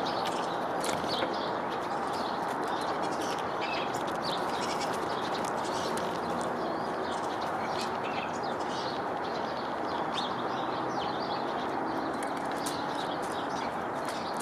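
Many small birds chirping at a backyard feeder, short calls coming thick and fast throughout, over a steady background noise.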